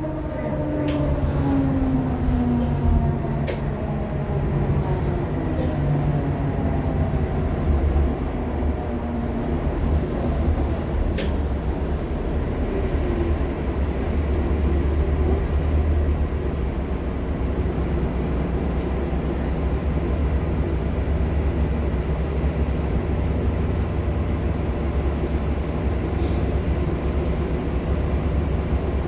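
Nova Bus LFSA HEV articulated hybrid bus (Cummins ISL9 diesel with Allison H50 EP hybrid drive) under way: the hybrid drive's whine falls in pitch over the first few seconds as the bus slows, then a steady engine and road rumble. A faint high squeal comes and goes twice in the middle.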